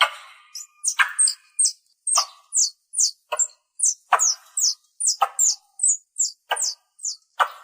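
A squirrel (tupai) calling: a rapid run of short, high chirps that each drop in pitch, about four a second, broken about once a second by a lower, harsher chirp.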